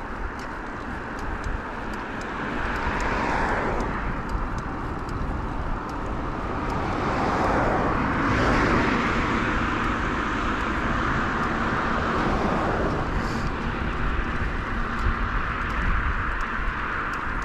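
Road traffic passing a moving bicycle, over a steady rumble of wind and tyres. The noise swells as a vehicle passes about three seconds in, and again for a longer stretch in the middle.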